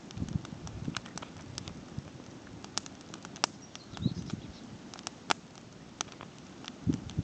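Campfire crackling: irregular sharp pops and snaps, with a few dull low knocks.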